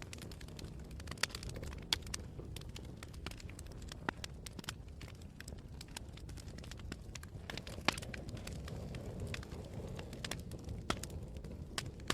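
Campfire burning: irregular sharp crackles and pops over a steady low rumble, with one louder pop about eight seconds in.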